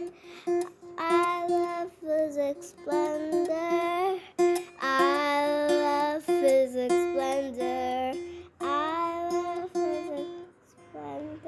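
Short sung outro jingle: a singing voice repeating a phrase over plucked-string accompaniment.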